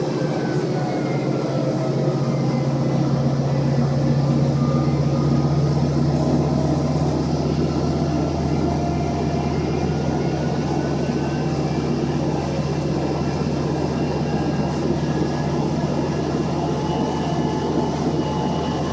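Scania CB80 city bus engine pulling hard under load up a long climb: a steady low drone with a faint whine that drifts in pitch, swelling a little a few seconds in.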